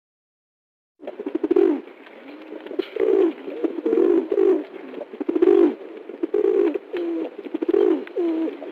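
Bird calls: a run of low-pitched calls, about one or two a second, starting abruptly about a second in.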